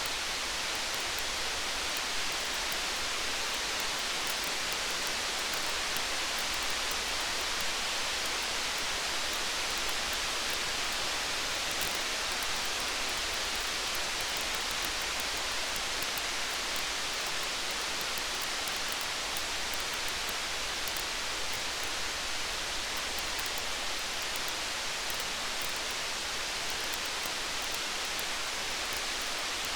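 Steady rain, an even hiss, with faint scattered crackles of a wood fire.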